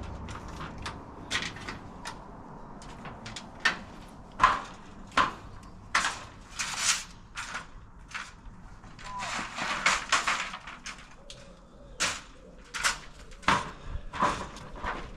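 Bricklaying: a steel trowel knocking and scraping on bricks and mortar in an irregular run of sharp taps, with a few longer scrapes around the middle.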